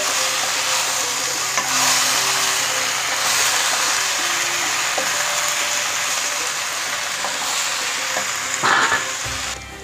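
Sliced raw green mango sizzling in hot oil in a nonstick pan while it is stirred and turned with a spatula. The sizzle drops off just before the end.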